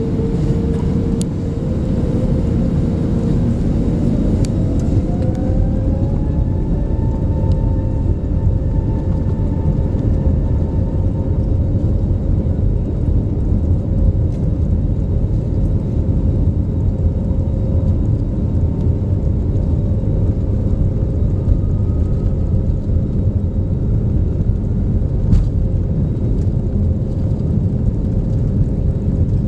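Airbus A321neo heard from inside the passenger cabin: a heavy low rumble with engine whine tones that climb in pitch over the first several seconds, then hold steady as the engines reach higher thrust.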